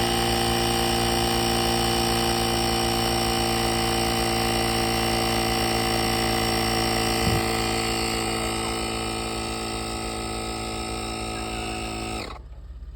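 Everlit portable 12-volt tire inflator running steadily as its small compressor pumps up a turkey hoop's tire, then cutting off abruptly near the end once the tire is full.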